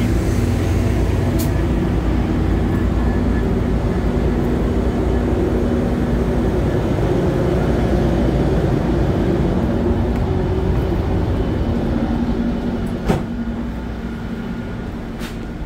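Steady low rumble and hum of idling diesel commuter trains standing at a platform. A sharp click about 13 seconds in, after which the rumble is quieter and muffled inside the coach.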